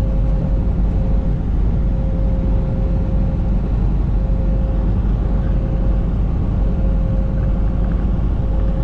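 Steady low rumble of a semi truck's engine and road noise heard from inside the cab while driving, with a faint steady tone that comes and goes.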